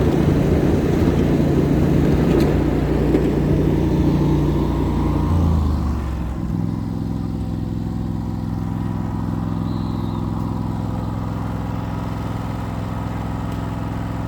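Small ride-on locomotive's engine working under load pulling cars up a grade, then throttling back about six seconds in to a steady, lower-pitched idle.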